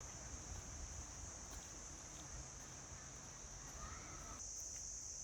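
Steady, high-pitched drone of insects in a forest chorus, with a faint low rumble underneath that cuts out about four seconds in, after which the drone is louder.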